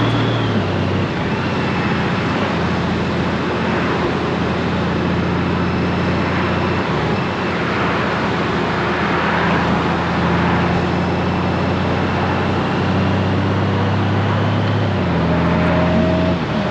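Honda Gold Wing's flat-six engine running under way, over constant wind and road noise. Its low note steps to a new pitch a few times as speed and gears change.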